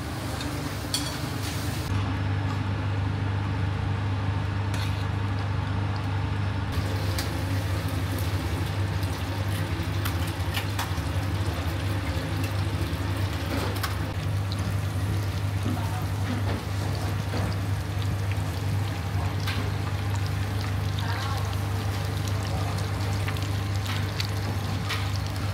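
Eggs and pieces of meat frying in oil in small steel pans on a gas range: a steady sizzle over a steady low hum, with occasional clinks of utensils on the pans.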